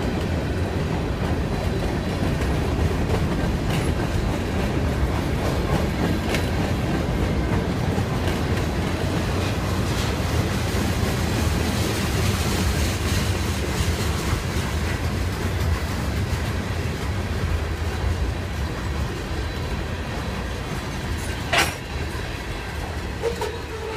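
Freight train cars rolling past: a steady rumble and clatter of steel wheels on the rails. A single sharp knock comes near the end, and the sound then falls away as the last cars go by.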